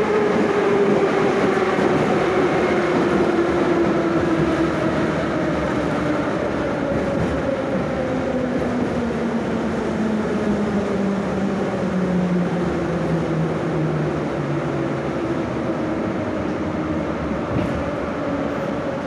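Moscow Metro 'Nomernoy' (81-717/714) train running through the tunnel and slowing down: steady rumble of wheels on track under the whine of the traction motors and gears, which falls slowly in pitch as the train brakes for the station. A single knock near the end.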